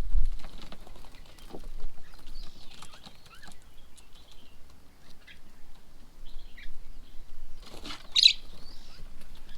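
Birds at a feeding table giving scattered short chirps and calls, with small taps and rustles. A louder, sharp call comes about eight seconds in.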